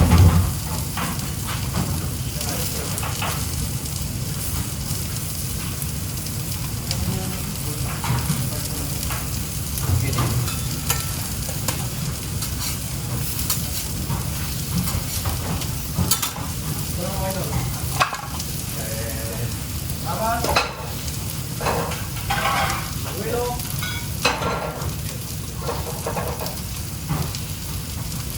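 Food frying in hot oil: a steady sizzling hiss, with sharp clicks of utensils or pans now and then.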